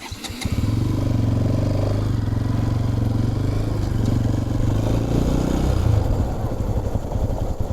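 Motorcycle engine running steadily, coming in suddenly with a few clicks, then turning rougher and less even for the last couple of seconds.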